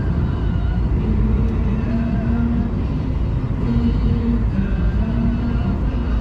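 A car driving, with the steady low rumble of engine and road noise. Faint short tones come and go above it.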